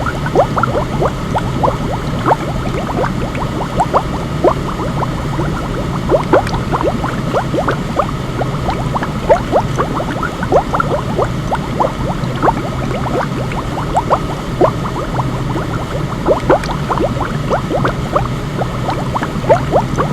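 Steady bubbling water used as a sleep sound: a constant low noise bed with a stream of small bubble pops, a few each second.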